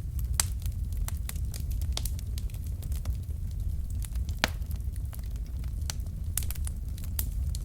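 Wood logs burning in a fireplace: a steady low rumble of flame with frequent irregular sharp crackles and pops, one louder pop about halfway through.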